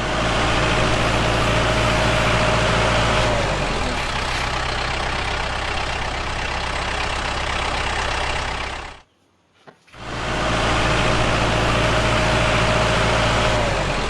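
Engine running steadily, with a low hum and a faint whine that dips slightly in pitch. It cuts off abruptly about nine seconds in and starts again a second later, the same stretch repeating.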